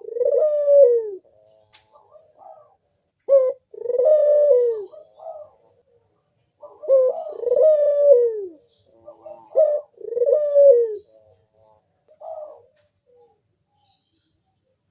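Puter (Barbary dove, ringneck dove) cooing its 'manggung' call: four phrases about three seconds apart, each a short note followed by a longer falling coo, then one short coo a little before the end.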